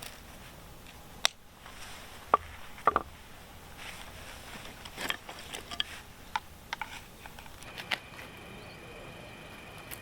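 Scattered light clicks and taps, about seven of them, the sharpest in the first three seconds. A faint steady high tone comes in near the end.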